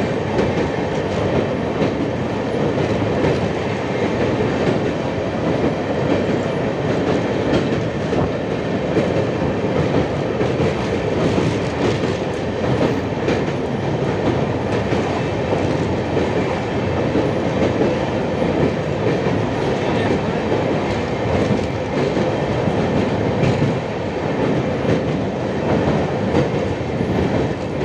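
Train running steadily across a rail bridge, a continuous rumble of wheels on the track.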